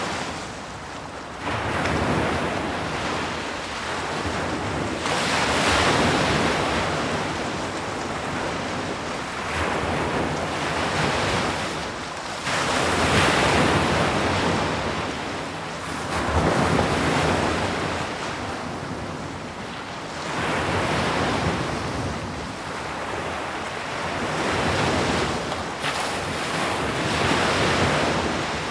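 Sea waves breaking on the shore, the surf swelling and falling back in a steady rhythm, a wave about every four seconds.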